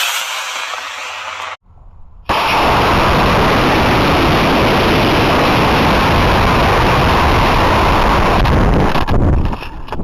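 Model rocket launch on an Estes E12-4 solid-fuel motor: a loud hiss at ignition and liftoff, a short drop, then from about two seconds in a loud, steady rushing of motor exhaust and air, easing off near the end.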